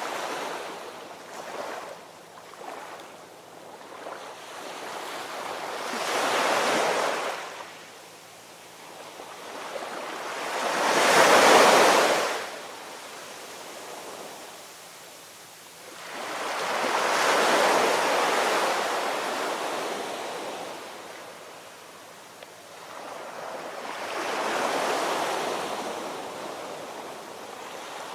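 Ocean waves breaking on the shore, four surges swelling and fading roughly every six to seven seconds, the second the loudest.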